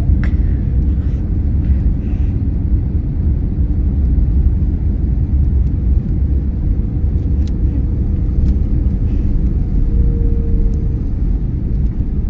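Steady low rumble of an airliner, with a faint steady hum and a few light clicks.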